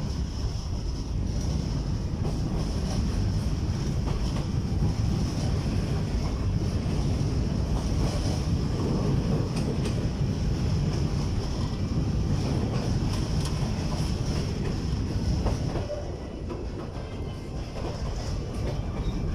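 A passenger train running along the track: a steady rumble with the clatter of the wheels over the rail joints, easing off for a moment near the end.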